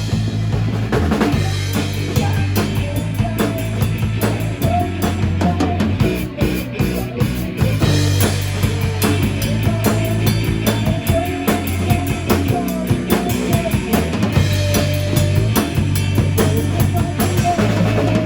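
Band music with a drum kit keeping a steady beat of kick and snare under sustained bass notes and a wavering melodic line.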